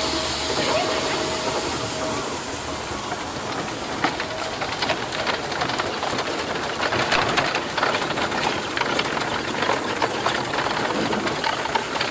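Steam traction engine hissing steam steadily, with many irregular clicks and knocks from about a third of the way in.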